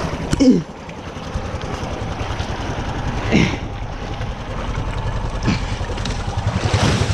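Honda Rancher 420 four-wheeler's engine running at low speed with a steady low putter, louder near the end. A loud short falling sound comes about half a second in, with a few fainter falling sweeps later.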